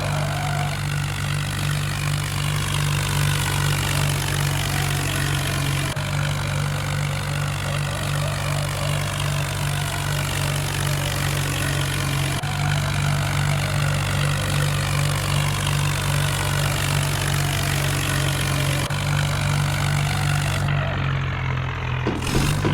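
Vehicle engine running steadily at an even speed, a low hum. Faint breaks come about every six seconds.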